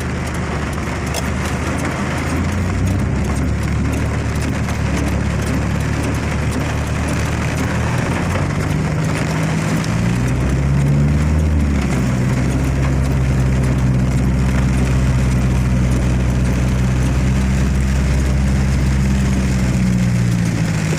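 Motor vehicle engine running steadily at low speed. Its pitch rises and dips about ten seconds in, as when the vehicle moves off, then holds steady, with a constant hiss of road or rain noise behind it.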